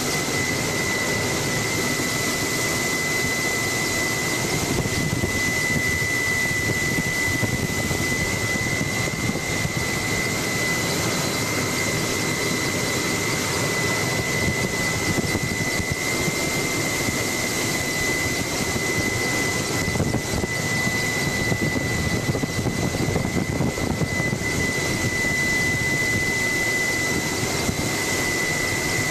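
Helicopter in flight heard from on board: steady engine and rotor noise with a constant high whine.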